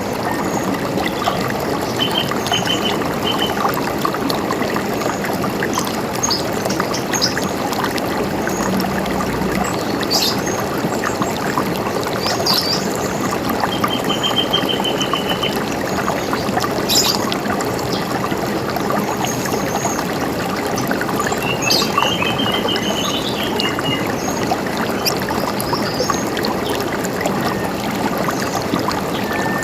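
River water running steadily over rocks, with small birds calling above it: three short, fast trills of evenly repeated notes and scattered high chirps.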